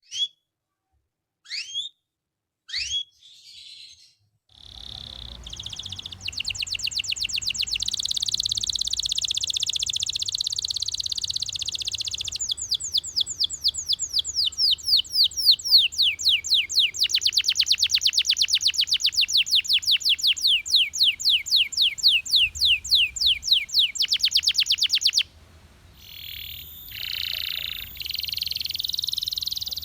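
Canary singing: a few short separate chirps, then long, rapid trills of quickly repeated high notes that change speed from one roll to the next, breaking off about 25 seconds in before more varied phrases. A faint low hum lies underneath.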